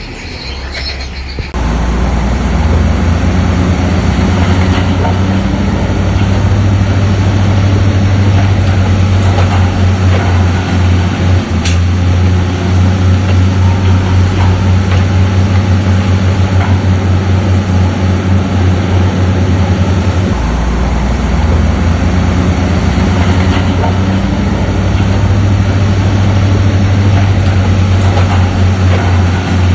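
Heavy diesel engine of a Shantui bulldozer working close by, a loud, deep, pulsing drone with track and engine clatter. It comes in suddenly about a second and a half in, with one sharp knock near the middle.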